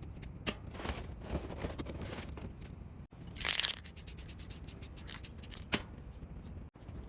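Sped-up workshop work sounds: tools scraping and clicking, with a short loud hiss about three and a half seconds in. The sound drops out abruptly twice, at cuts in the time-lapse.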